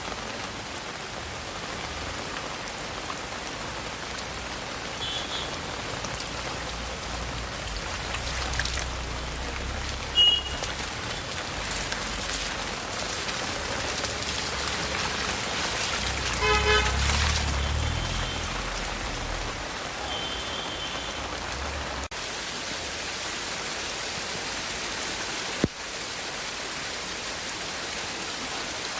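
Steady heavy rain falling, with vehicles passing on a wet road and several short horn toots, the loudest about two-thirds of the way through as a vehicle goes by.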